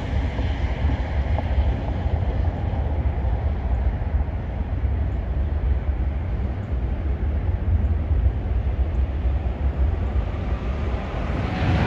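Low, steady rumble of jet aircraft at an airport, mixed with wind on the microphone. Near the end a louder aircraft engine sound starts to build.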